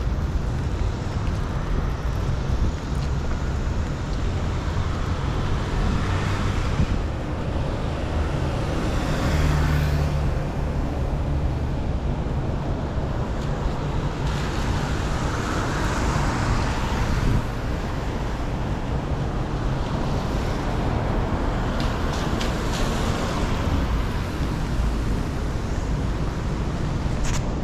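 City street traffic: several cars pass one after another over a steady low rumble of traffic, their tyres hissing on the wet road.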